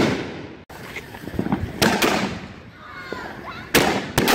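Fireworks exploding: sharp bangs with rumbling echoes, one at the start, one about two seconds in, and two close together near the end.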